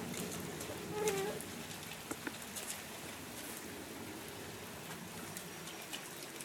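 Light rain pattering, with many small drops ticking irregularly and a brief low call about a second in.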